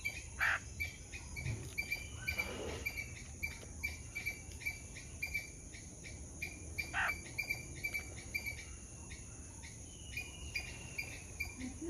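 Garden birdsong: a bird repeats a short, high chirp about three times a second, with a thin falling whistle twice, over a steady high insect hiss. A couple of sharp clicks stand out, one right at the start and one about seven seconds in.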